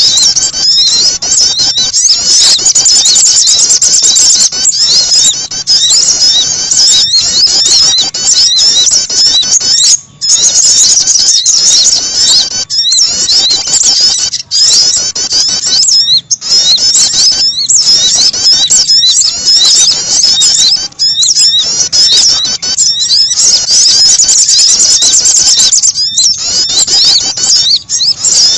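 Dense, loud bird-lure recording of small songbirds, sogon and prinia (prenjak), giving rapid high-pitched chirps and trills almost without pause, broken by brief gaps about a third and halfway through.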